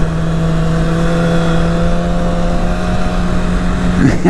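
Yamaha R6 inline-four sportbike engine running steadily at constant revs while riding, over a hiss of wind and road noise.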